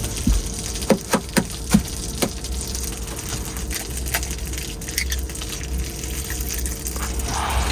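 Kitchen sounds of breakfast being made: a few sharp clicks and taps of utensils in the first couple of seconds over a steady low hum, then liquid being poured near the end.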